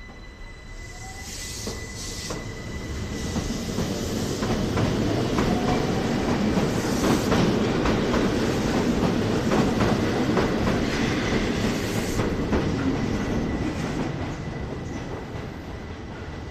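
A Keihan Ōtsu-line train runs past at low speed. It builds up, is loudest in the middle and fades away near the end, with wheels clacking over rail joints and some wheel squeal.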